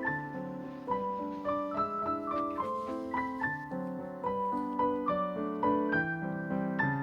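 Solo piano background music: a gentle melody of single notes over soft repeated chords.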